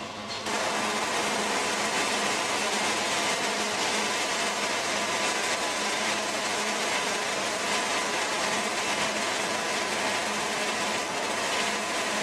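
Wood-Mizer portable band sawmill cutting a board from a small pine log, its engine running under load. The blade enters the cut about half a second in, and the sound gets louder and holds steady.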